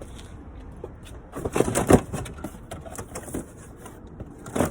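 Metal parts and tools being handled during a shock absorber swap: a cluster of sharp clinks and knocks about a second and a half in, and another knock near the end.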